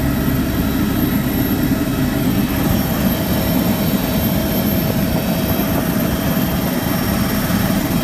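Helicopter in flight heard from on board: a loud, steady drone of engine and rotor noise with no change.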